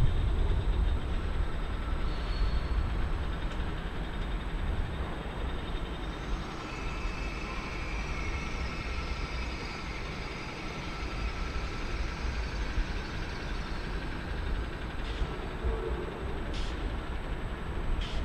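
Train moving slowly through the station with a steady low rumble; from about six seconds in a high, drawn-out squeal joins for several seconds, then a few short clicks near the end.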